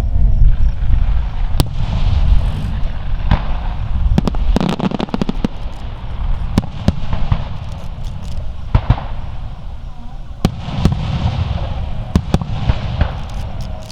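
Aerial fireworks display: repeated sharp bangs of shells bursting, with stretches of crackling and a deep low rumble underneath that is heaviest in the first few seconds.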